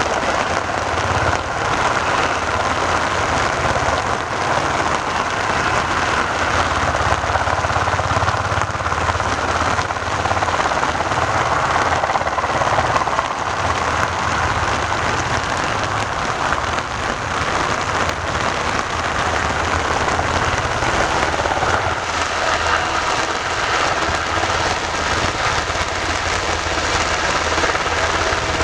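UH-60 Black Hawk helicopter's turbines running steadily, with rain falling; a continuous low hum under an even rushing noise, with no breaks.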